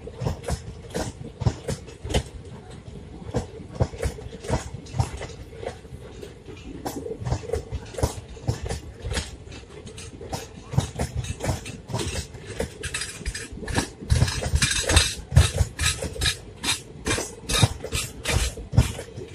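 Passenger coaches of an Indian Railways express train rolling past, their wheels making a run of sharp metallic clicks and clanks on the track, a few a second. The clicks grow denser and louder about two-thirds of the way through, over a faint steady tone.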